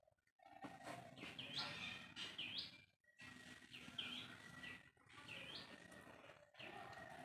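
Faint bird calls: several short chirps that sweep up and hook over, about once a second, over low background noise.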